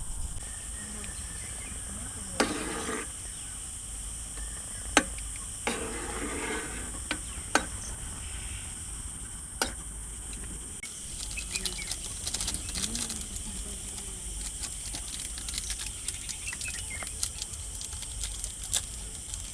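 Steady high chirring of crickets, with a few sharp clicks and knocks in the first half and a dense crackling patter from about halfway on.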